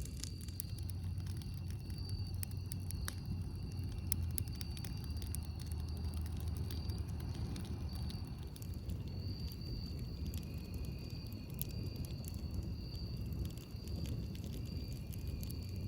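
Campfire burning, with sharp irregular crackles and pops from the burning wood over a steady low rumble. A faint high thin tone comes and goes in stretches.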